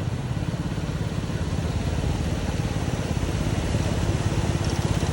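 KTM Duke 250's single-cylinder engine running at low, steady revs in slow traffic, with road and wind noise, growing slightly louder.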